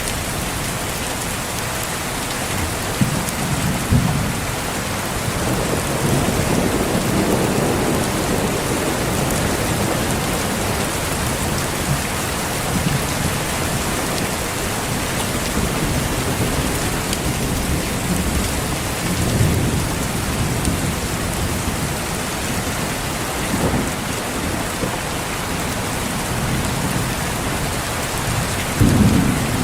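Steady rain falling, with low rolls of thunder swelling and fading several times: one around seven seconds in, another about two-thirds through, and a louder one near the end.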